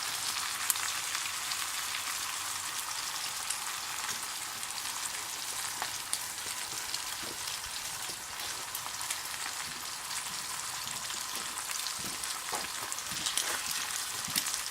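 Bacon and eggs frying in a pan over a campfire: a steady sizzling hiss with scattered pops and crackles.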